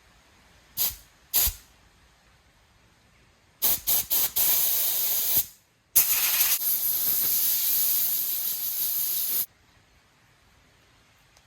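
Compressed-air blow gun hissing in blasts while blowing out a hedge trimmer fuel part: two quick puffs, then three short blasts, a burst of about a second, and a long blast of about three and a half seconds that cuts off sharply.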